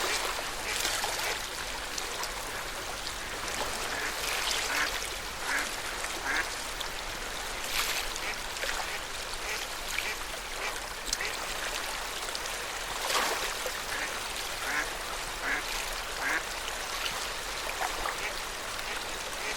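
Small waves of Lake Yamanaka lapping and splashing at the shore, with short quack-like calls now and then and a louder splash about 8 and 13 seconds in.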